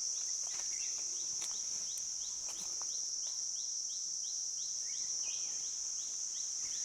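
Steady high-pitched insect drone, with a short rising chirp repeating about twice a second.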